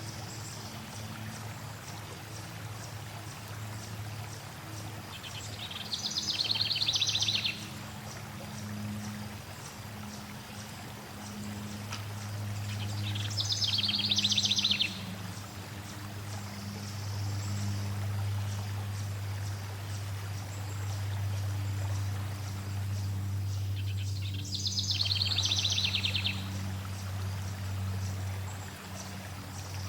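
Flowing stream water with a steady low hum beneath, and a songbird singing a fast trilled phrase three times, about 6, 13 and 24 seconds in.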